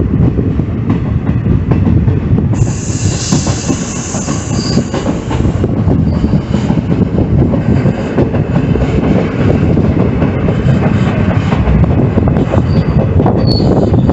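Train running on steel rails with a steady low rumble and wheel clatter, and the wheels squealing against the rails several times, the loudest from about two and a half seconds in and again near the end.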